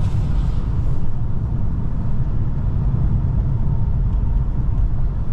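A moving car's steady low rumble of engine and tyres on the road.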